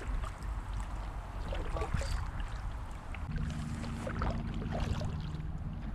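Kayak paddles dipping and splashing in the water in intermittent strokes, over a low steady rumble. A low steady hum joins about halfway through.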